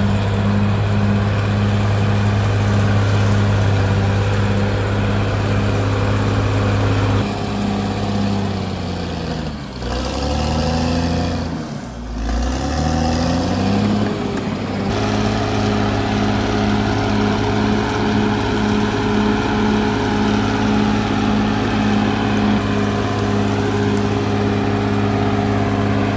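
Caterpillar D6R XL bulldozer's diesel engine running steadily at working revs. In the middle, for several seconds, the engine speed sags twice and climbs back up.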